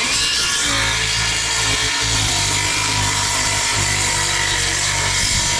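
Power saw running steadily and cutting through roofing material.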